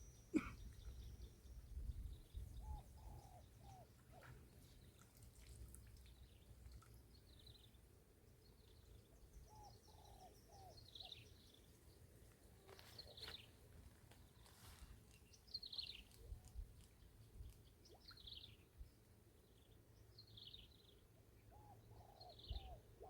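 Faint birdsong: one bird repeats a high, falling note every two seconds or so from about ten seconds in, while another gives a low phrase of three or four short notes three times, over a low rumble.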